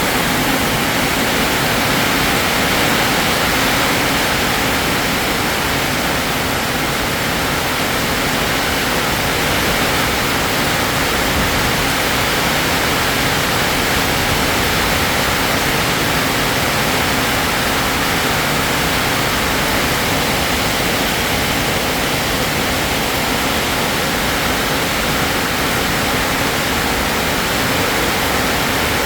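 Steady heavy rain, an even hiss with no breaks or separate drops standing out.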